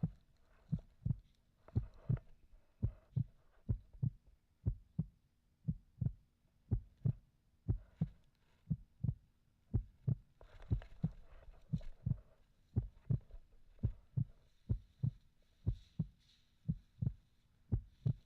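Dull, low thumps repeating in a steady rhythm of about three a second, with faint rustling above them.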